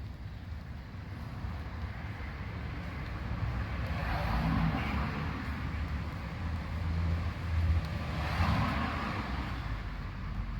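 Road traffic: a steady low rumble with two vehicles passing, the first swelling up about halfway through and the second near the end.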